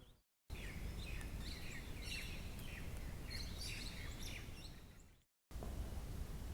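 Several wild birds chirping and calling in quick short notes over a steady low rumble of wind or handling noise, broken twice by brief dead silences.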